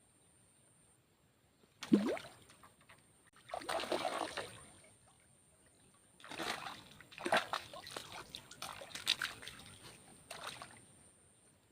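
Water splashing and sloshing in several irregular bursts. The first is a sharp splash about two seconds in.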